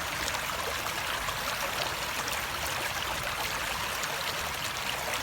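Running water flowing steadily, an even rushing hiss with fine splashes and trickles scattered through it.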